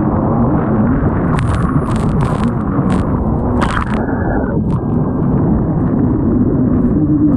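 Kawasaki STX 160 jet ski engine running hard under way, its drone wavering in pitch, buried in heavy wind and water rush over the microphone. A quick series of sharp knocks comes between about one and a half and four seconds in.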